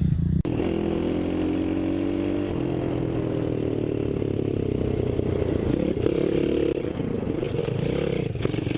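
Small-displacement pit bike engines running and revving, their pitch drifting up and down, starting abruptly about half a second in.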